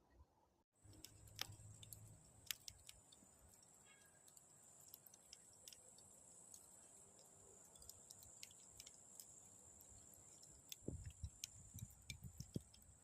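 Faint crackling of a wood campfire: irregular sharp pops and ticks over a steady high hiss, with a few soft low thumps near the end.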